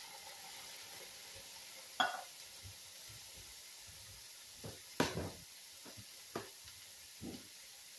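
Canned condensed cream of mushroom soup being emptied into a hot skillet: several sharp knocks and clinks of the can and a utensil, the loudest about two and five seconds in, over a faint steady sizzle from the pan.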